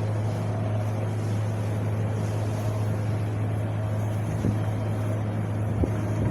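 Wind blowing steadily, with a constant low rumble under a soft rushing hiss.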